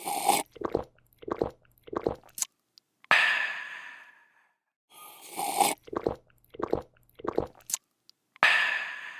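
A person drinking: a slurp, three quick gulps and a sharp click, then a long refreshed "aah" that fades away. The sequence plays twice, the second starting a little past halfway.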